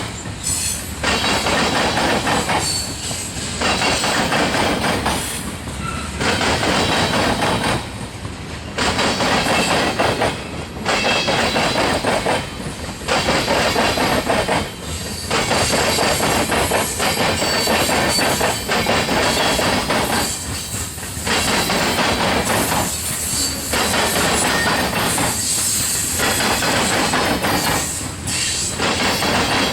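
BNSF freight train's cars rolling past over a diamond crossing, wheels clattering across the crossing rails. The sound swells and dips about every two seconds as car after car goes by, with some faint high wheel squeal.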